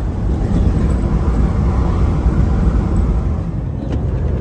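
Semi-truck driving at road speed, heard from inside the cab: a steady, loud low drone of engine and tyre noise.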